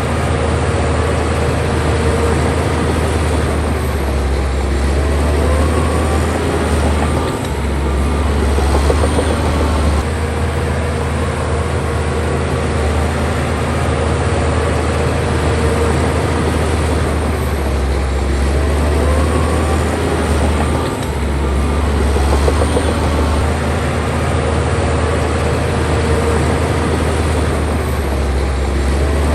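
Crawler bulldozer's diesel engine running hard and steadily while it works, with clattering steel tracks. The sound swells and eases every several seconds.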